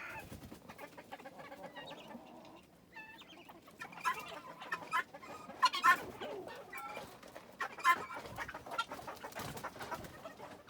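Chickens clucking with short, scattered calls, several sharper ones in the second half.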